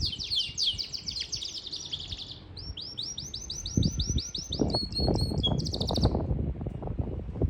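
Yorkshire canary singing in fast trills of repeated sweeping high notes: two long rolls in the first four seconds, then a few held ringing notes. An uneven low rumble comes in about four seconds in.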